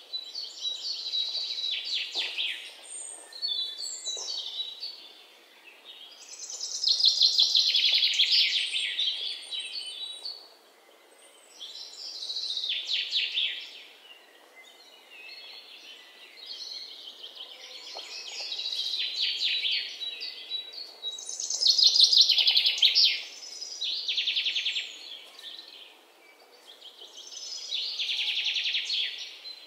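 Many small birds chirping and chattering in high-pitched bursts of a few seconds each, recurring every five or six seconds, with quieter twittering in between.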